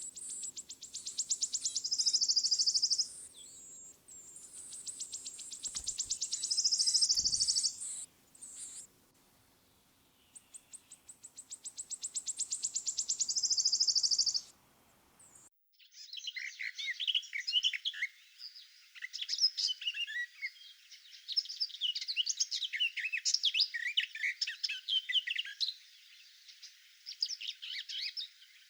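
A songbird repeating the same song three times: a rapid trill of high notes that speeds up and grows louder, ending in a buzz. About halfway through the sound changes abruptly to a busy run of short, high chirps and tweets.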